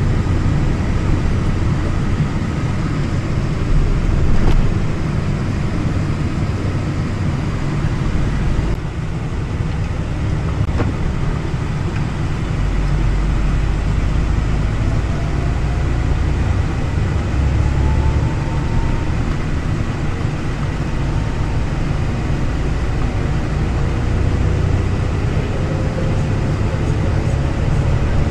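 Electric passenger train running, a steady rumble of wheels and carriage heard from on board, with faint rising whines from about ten seconds in.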